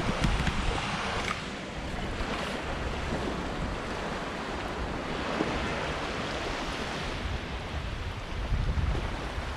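Sea waves washing and breaking along a beach, with wind gusting on the microphone as low rumbles at the start and again near the end.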